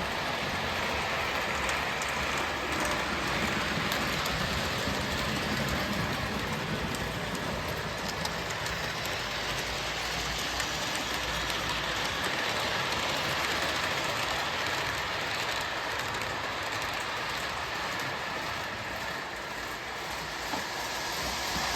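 O gauge Williams by Bachmann FM Trainmaster model locomotive running steadily along the track, a constant whirring rumble of motor and wheels on the rails.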